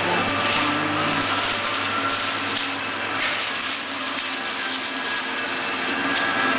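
Steady whirring background noise of a sandwich shop, with faint voices under it early on.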